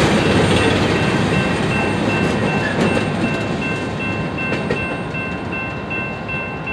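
Union Pacific freight train's last cars rolling away over the rails, the rumble and clatter fading as the train recedes. A grade-crossing bell dings steadily, about three times a second.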